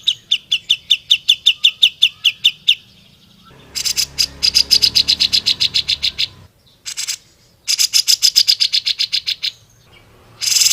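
Cucak jenggot bulbul in full song, running off several fast phrases of sharp, evenly repeated notes separated by short pauses.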